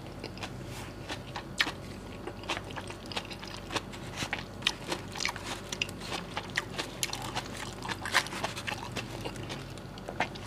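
Close-up chewing and mouth clicks of a person eating pecel, with a plastic spoon scooping through the food in its paper wrapping. Many short, irregular clicks throughout.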